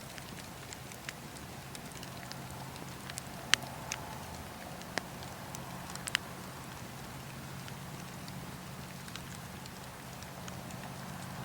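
Campfire burning, wood crackling with irregular sharp pops, a few louder snaps among them, over a low steady rumble.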